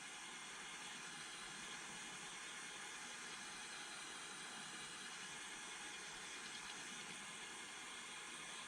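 Butane soldering torch burning with a steady, faint hiss.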